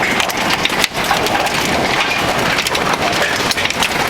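Hail pelting down: a dense, loud clatter of countless small stones striking hard surfaces, hit after hit over a steady rushing noise.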